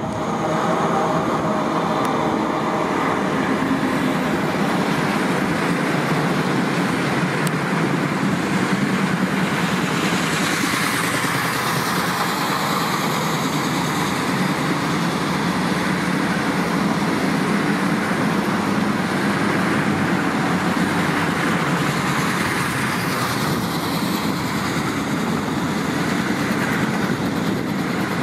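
A rolling-highway freight train passing close by: lorries and trailers on low-floor wagons hauled by a BLS locomotive. A loud, steady rumble and rattle of wheels on rails that starts suddenly and keeps on.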